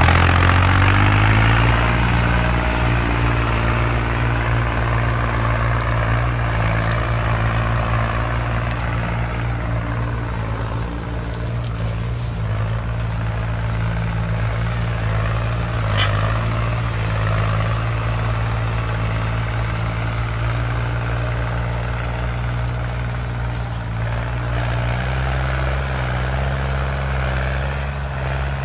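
New Holland tractor's diesel engine running steadily, rising slightly in pitch at the start. One sharp click about halfway through.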